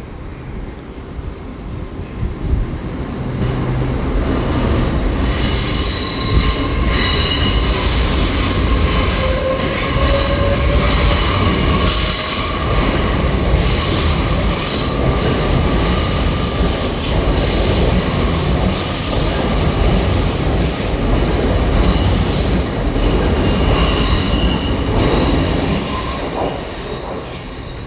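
A Great Western Railway Intercity Express Train (Class 800-series IET) pulling out of the terminus and accelerating, its wheels squealing over the pointwork with a rising motor whine under a steady rumble. It builds up over the first few seconds and fades near the end.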